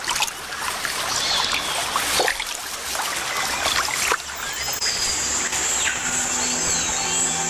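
Water splashing and trickling, with several sharp splashes, as the jaguar moves through the shallow river. Birds chirp briefly, and soft background music fades in about six seconds in.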